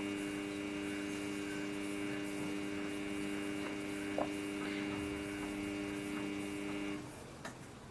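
Samsung front-load washing machine giving a steady electric hum at the end of its rinse and spin cycle, cutting off about seven seconds in, followed by a faint click.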